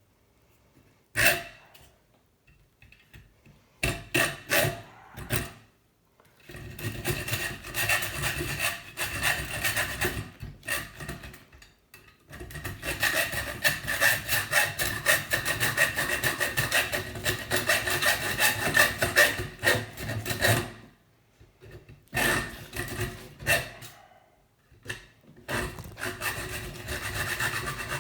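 A hand saw cutting through the metal tube of a scrap kettle heating element in fast back-and-forth strokes. It comes in several bouts with short pauses, after a few sharp knocks in the first seconds.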